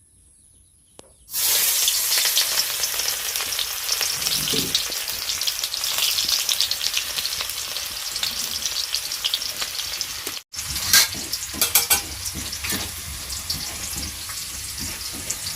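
Food sizzling and frying in hot oil in a cooking pot, starting suddenly about a second in. Near the end it is stirred, with scraping clicks in the pan.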